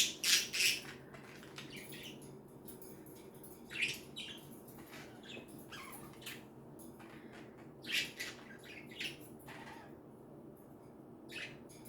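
Pet budgerigars chirping and squawking. A quick run of loud calls comes in the first second, then single short calls about four, eight and eleven seconds in.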